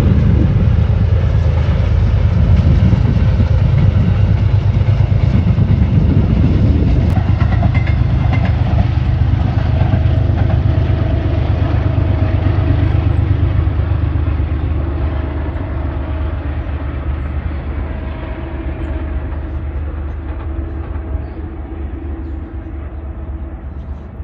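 A train running past on the tracks with a heavy, steady rumble, then fading gradually as it moves away.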